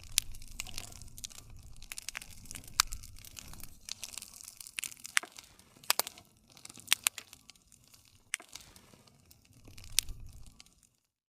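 Wood campfire crackling, with frequent sharp pops and snaps over a low rumble of flame; it cuts off suddenly near the end.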